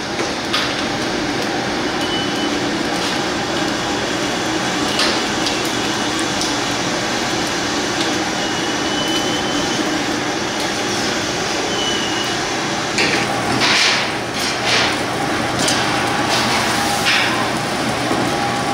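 Busy roast-chicken kitchen at work: a steady noisy hum under scattered knocks and clatters of metal and utensils, with a burst of clattering near the end and a few short high-pitched squeaks or beeps.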